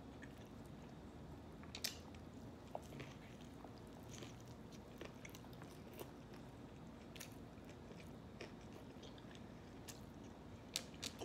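Faint chewing of a mouthful of double cheeseburger with chopped chilies and pickles: soft mouth sounds with scattered small wet clicks and smacks.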